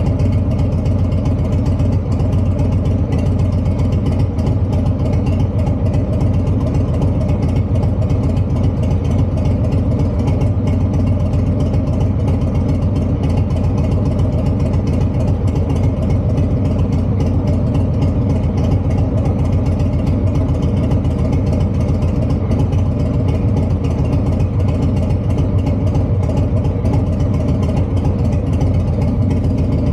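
Harley-Davidson V-twin idling steadily through an aftermarket Two Brothers Racing (TBR) exhaust, running on a Vance & Hines FP4 tune.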